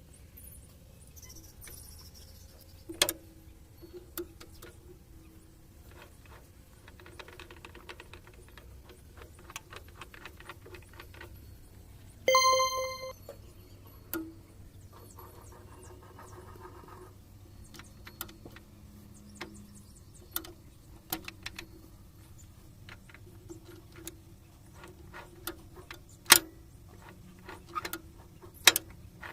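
Scattered metal clinks and knocks of tools and parts during tractor gearbox repair, over a steady low hum, with one loud ringing metallic ding about twelve seconds in.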